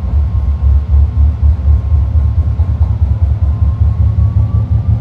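BART Fleet of the Future train accelerating away from a station, heard from inside the car: a loud low rumble from the running gear, with a thin propulsion whine that begins rising in pitch about three seconds in as the train picks up speed.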